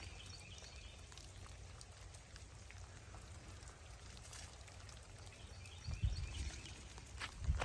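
Rain dripping and pattering outdoors, a steady wet hiss with faint ticks, over a low wind rumble on the microphone; two dull thumps about six seconds in and near the end.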